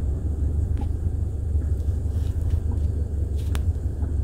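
A 2022 Subaru BRZ sitting at idle: a steady low rumble with a few faint clicks, in which the owner hears a gurgling that he thinks comes from the fuel pump.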